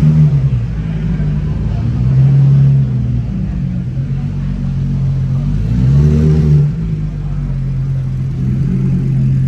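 A car engine running and being revved, its low note swelling up in pitch and falling back three times.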